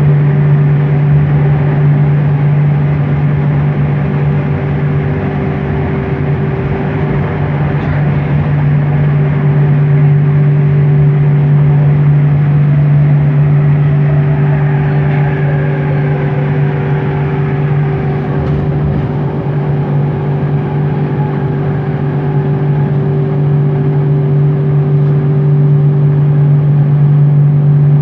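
Bombardier Innovia ART 200 train running, heard from inside the car: the linear induction motors give a strong steady low hum over rolling noise. About halfway through, a whine falls in pitch.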